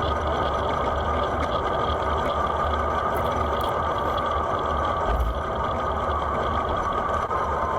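Steady wind rumble on the microphone with road and traffic noise while riding a bicycle on a busy road.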